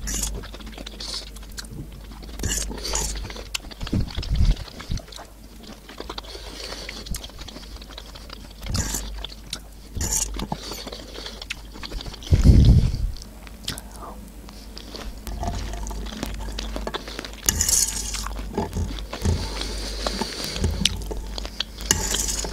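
Close-miked chewing of canned sweet corn kernels, with sharp clicks of a fork scooping against a metal tray. A low thump about halfway through is the loudest sound.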